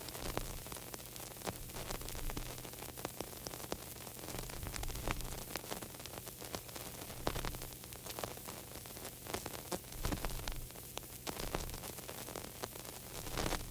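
Crackling static: a steady hiss scattered with irregular sharp clicks and pops over a low steady hum.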